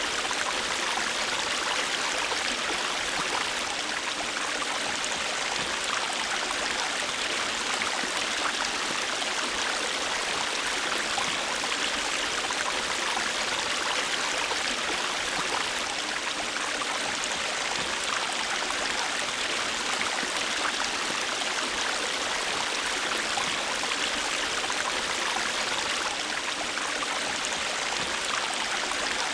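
A river or stream flowing steadily over rocks: an even, unbroken rush of water with fine splashing and babbling.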